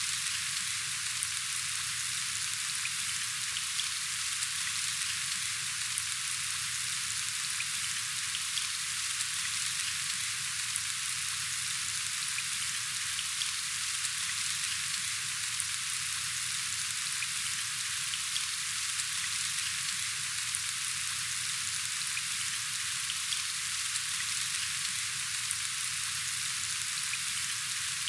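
Steady rain falling: an even, dense hiss with faint scattered drop ticks, unchanging throughout.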